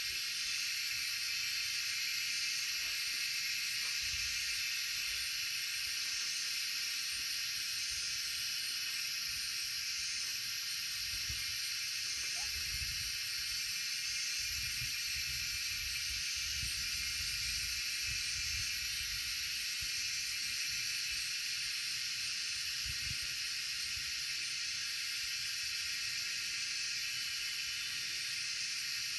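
Wind outdoors, gusting on the microphone as an irregular low rumble, over a constant high-pitched hiss.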